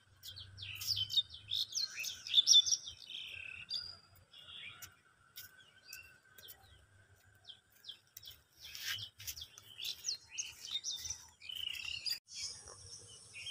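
Small birds chirping in short, high calls. The calls are thickest in the first few seconds and pick up again near the end, over a faint steady high tone.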